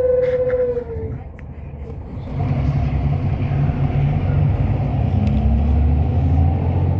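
Hyundai Universe coach's engine heard from inside the bus, pulling away: after a brief lull, a low rumble builds about two seconds in, its pitch rising slowly. A steady high tone sounds at the start and stops about a second in.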